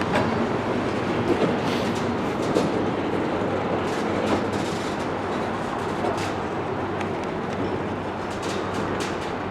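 Freight train moving through a rail yard: a steady rolling rumble with scattered clicks and knocks as the wheels pass over rail joints and switches.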